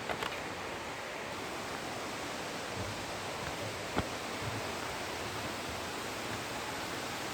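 Steady rush of falling water from a waterfall. A few light clicks come near the start, and one sharp click about four seconds in.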